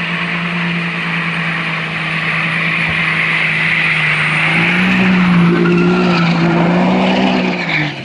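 Turbocharged car engine held at high, steady revs over a loud hiss; the revs rise a little about halfway through and fall away just before the end.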